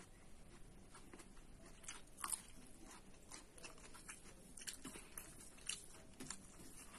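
A person chewing and biting food close to the microphone, with faint irregular crunches and mouth clicks; the sharpest crunches come a little over two seconds in and again near six seconds.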